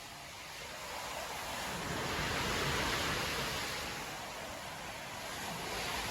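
Storm surf on a beach: a steady wash of breaking waves that swells a couple of seconds in, eases, and builds again near the end.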